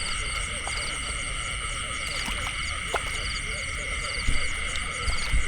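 A dense chorus of frogs and insects: steady high trilling, with a short pulsed call repeating about once a second. A few low thumps come near the end.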